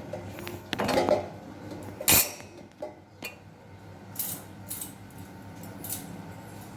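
Kitchen utensils and dishes clinking and knocking, with one loud hard knock about two seconds in and a few soft scrapes later.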